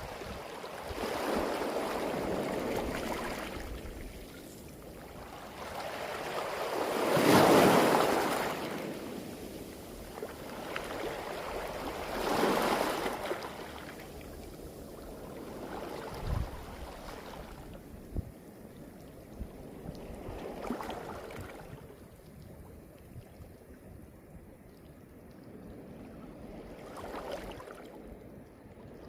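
Waves surging up a beach of smooth round pebbles and draining back, the stones rattling in the backwash; about five surges come a few seconds apart, the biggest around seven seconds in.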